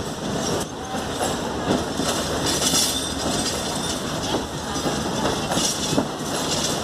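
Pakistan Railways passenger coaches rolling past on the rails, a steady rumble of wheels with knocks from the rail joints roughly once a second.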